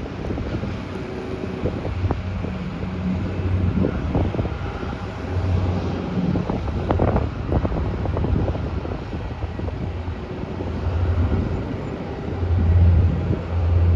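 Wind buffeting the microphone over a low engine drone that swells and fades several times, loudest near the end.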